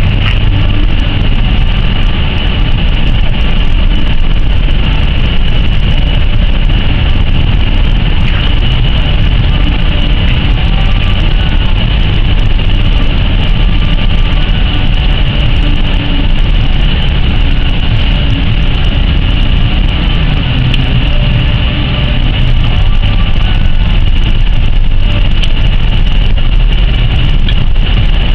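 Car driving in strong wind: loud, steady rumble of wind and road noise with a constant high hiss.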